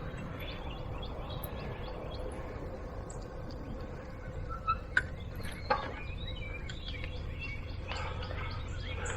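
Small birds chirping over a steady low rumble of wind and rolling noise on a helmet-mounted camera. A few short sharp clicks come a little before the middle.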